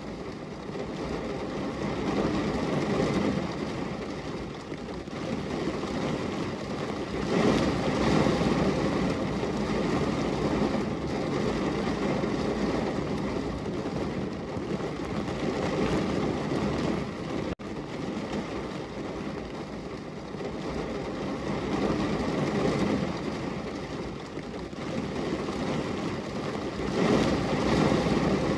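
Heavy rain pouring down on a window, a steady rushing hiss with a deep rumble underneath, swelling louder a couple of times.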